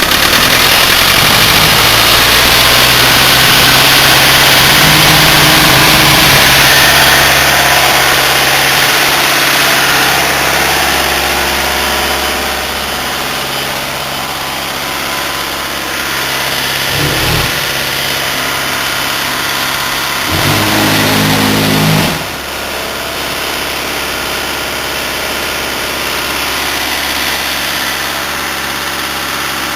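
Cement tanker truck's diesel engine running steadily, with a loud hiss over it for the first several seconds. The engine note rises briefly about seventeen seconds in. It rises again louder a few seconds later and drops back suddenly.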